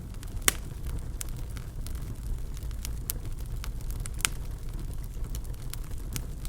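Wood fire in a fireplace crackling, with irregular sharp pops and snaps over a steady low rumble of the flames; the loudest pop comes about half a second in.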